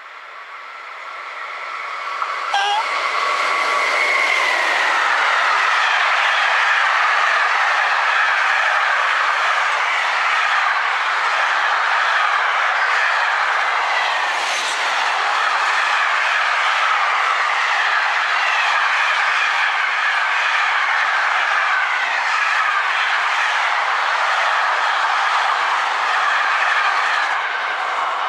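Electric freight locomotive approaching and passing close by with a steady whine that drops in pitch as it goes past, followed by a long train of intermodal container wagons rolling by with continuous wheel rumble and clatter. There is a sharp click about two and a half seconds in and another about halfway through.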